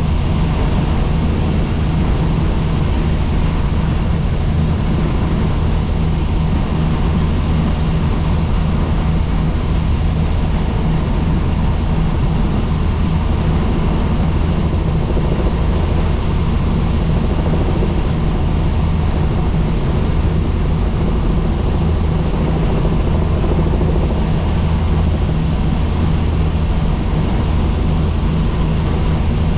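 Helicopter in flight: the rotor and engine give a loud, steady drone with a strong low hum that does not change.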